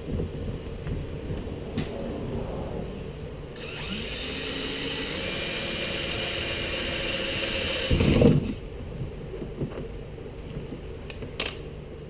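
Power drill cutting a hole through a plastic kayak hull. It runs steadily for about four seconds in the middle and ends with a loud thump, with quieter knocks and scraping before and after.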